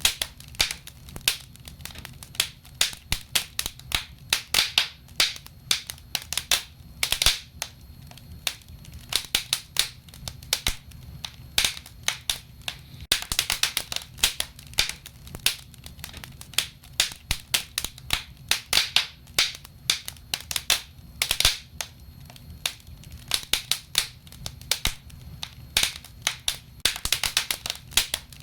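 Wood fire burning in a fireplace, crackling and popping with frequent irregular sharp snaps, over a low steady rumble of the flames.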